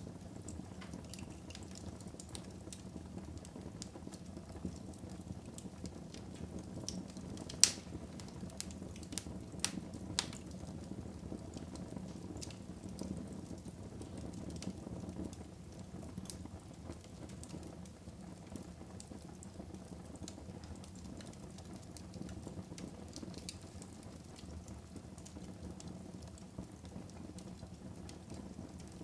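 Wood fire crackling in a fireplace: a steady low rush of burning with scattered small snaps, a sharp pop about seven and a half seconds in and a few more around ten seconds.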